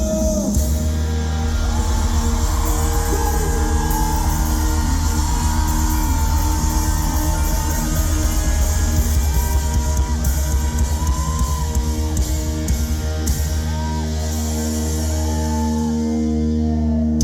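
Live rock band playing: electric guitar and a bending melody line over bass and drums.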